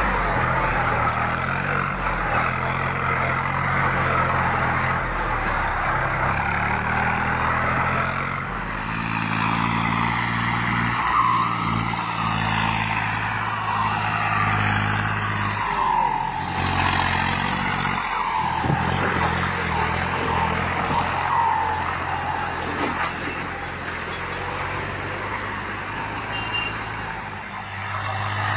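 Tractor diesel engine running under load, its pitch going up and down repeatedly as it is revved.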